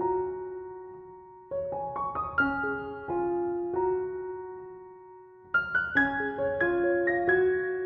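Background piano music: gentle phrases of single notes that ring out and fade, with a new phrase starting about a second and a half in and another about five and a half seconds in.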